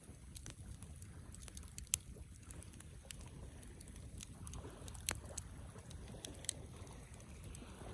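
Wood campfire crackling, with scattered small snaps and two sharper pops, one about two seconds in and one about five seconds in, over a low steady rumble.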